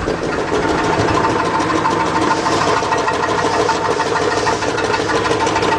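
2006 GMC Envoy XL Denali's 5.3-litre V8 running in gear, with a fast, steady knocking from low in the engine. The mechanic suspects the knock comes from the flywheel or the torque converter rather than the engine itself.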